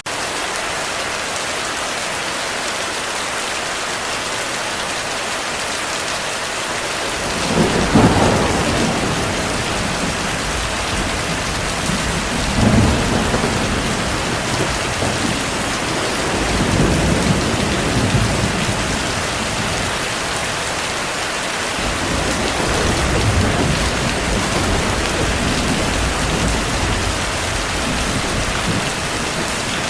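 Heavy steady rain with thunder: a rumble builds about seven seconds in and peaks sharply around eight seconds, then rolls on and off through the rest, with a brief lull a little past the middle.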